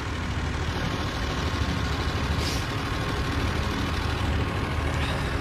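A vehicle engine running steadily with a low rumble, broken by short hisses about two and a half seconds in and again near the end.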